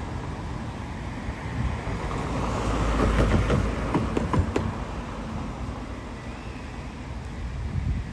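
GO Transit commuter train passing: a steady rumble that swells about three seconds in, with a run of sharp clicks from about three to four and a half seconds in.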